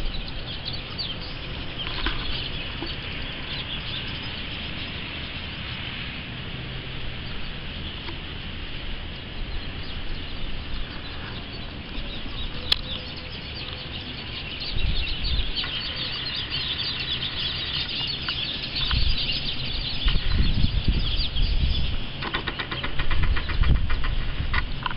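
Tropical thunderstorm: steady rain hiss with dense fine pattering, joined in the second half by several low rumbling surges that come and go.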